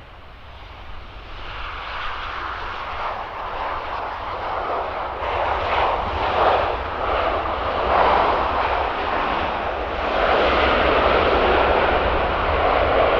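Aircraft engine noise growing steadily louder as a plane draws closer, a broad rushing sound that is loudest near the end.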